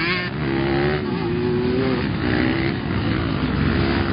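Motocross motorcycle engines running at high revs, the pitch rising and falling as the throttle is worked, with a quick rise just after the start.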